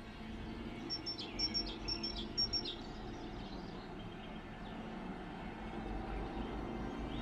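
A songbird singing a short phrase of about four high, sharp notes, each dropping quickly in pitch, in the first few seconds, over a low steady outdoor rumble.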